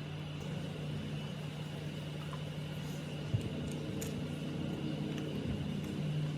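Restored electric automatic pressure water pump running under test with a steady motor hum, with one short click a little past the middle.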